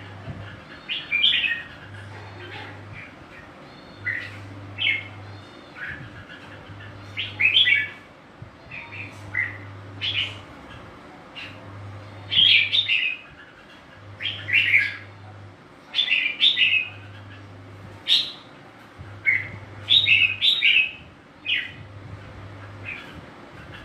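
Red-whiskered bulbul singing: short, bright, warbled phrases repeated every second or two. Under it, a faint low hum switches on and off about every two seconds.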